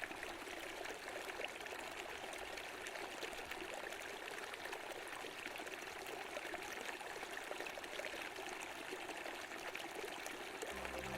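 Steady rush of running water from a flowing stream, with no pitched tones in it. Background music fades back in just before the end.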